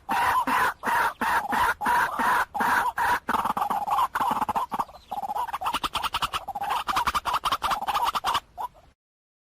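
White-breasted waterhen calling: a long run of rapid, repeated croaking notes. The notes falter briefly midway, then die away and stop just before the end.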